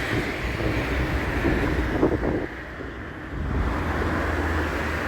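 Strong wind buffeting the microphone on a moving bicycle: a steady rushing noise with a heavy low rumble that eases briefly about two and a half seconds in.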